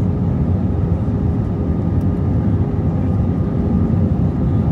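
Airbus A320-232 in flight heard from inside the passenger cabin: a steady low roar of engines and airflow with a faint steady tone above it.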